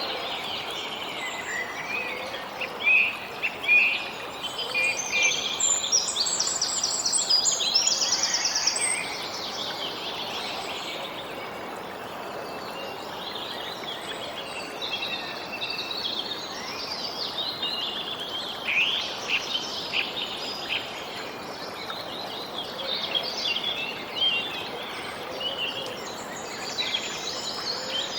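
Several songbirds chirping and singing, with a busy stretch of quick trills in the first third, over a steady background hiss.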